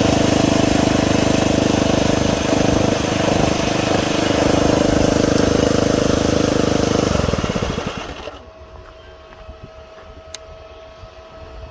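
A machine running steadily with a dense mechanical noise and several steady tones, winding down and stopping about eight seconds in, leaving a faint steady hum.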